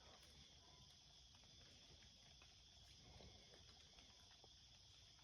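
Near silence with a faint, steady high insect chorus, like crickets, and a few soft ticks and rustles.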